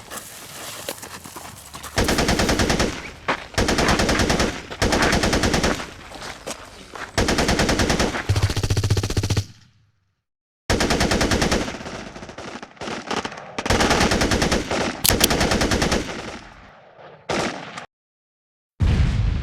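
Airsoft guns firing several bursts of rapid automatic fire, each a second or two long, with quieter gaps between. The sound cuts abruptly to silence twice, about halfway through and near the end.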